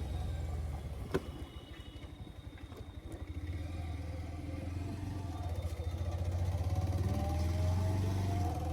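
Motor vehicle engine running at low revs with a pulsing beat, then pulling away and speeding up from about three seconds in, with a slowly rising whine. There is a single sharp click about a second in.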